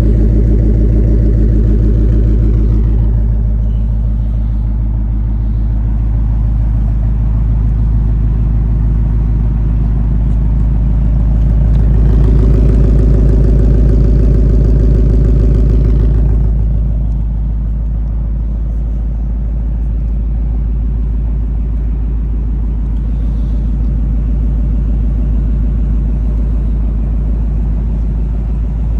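A car engine running steadily. It grows louder about twelve seconds in and eases back about four seconds later.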